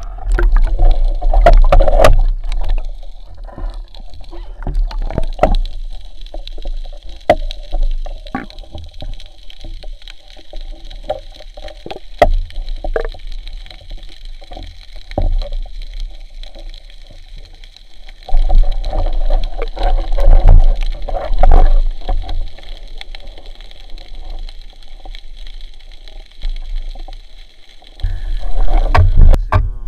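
Water sounds as heard underwater: low gurgling and rushing swells with many scattered sharp clicks over a steady faint hum.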